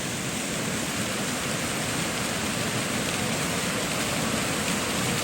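Waterfall pouring over slate bedrock: a steady rushing of falling water that grows a little louder toward the end.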